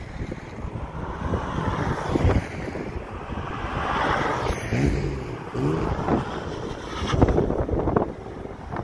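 A Porsche 911's flat-six engine passing close and accelerating, its pitch rising in short sweeps about halfway through. Another car passes a little later, and wind buffets the microphone.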